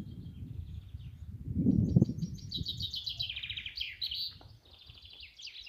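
Songbird singing fast, high trilled phrases, clearest from about halfway through. Under the first half runs a low rumbling noise that swells loudest near two seconds.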